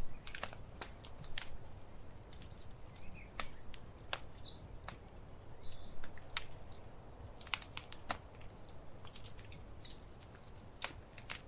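Wood fire crackling in a fireplace: irregular sharp pops and snaps, some louder than others, over a low steady rumble.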